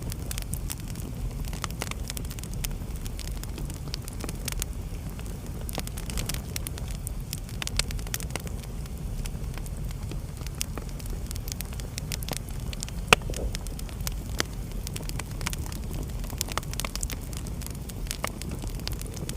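Wood fire crackling in a fireplace: scattered sharp pops and snaps over a steady low rumble, with one loud pop about two-thirds of the way through.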